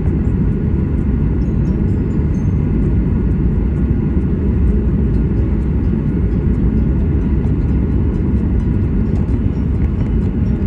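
Airliner engines and airflow heard from inside the passenger cabin: a steady, loud, low rumble with a faint steady whine above it and light scattered rattles.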